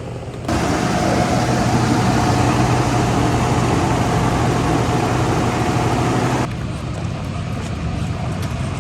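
A large engine running steadily. A louder rushing noise with a steady whine comes in suddenly about half a second in and drops away about six and a half seconds in.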